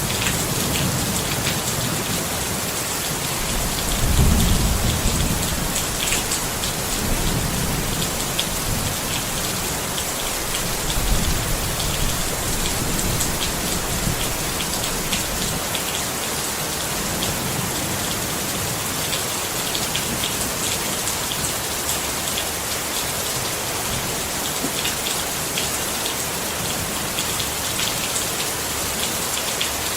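Steady rain pattering on a tent, with low rumbles of thunder swelling about four seconds in and again around eleven seconds.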